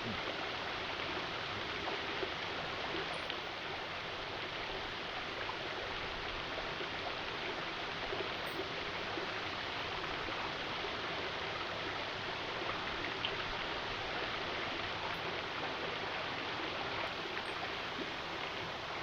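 Steady rush of flowing water, even throughout, with a few faint ticks.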